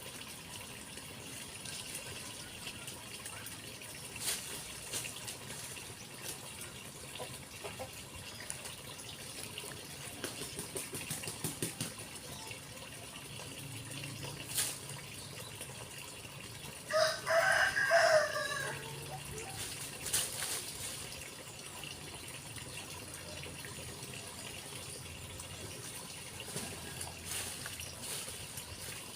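A rooster crows once, a call of about a second and a half some way past the middle, over a steady background hiss.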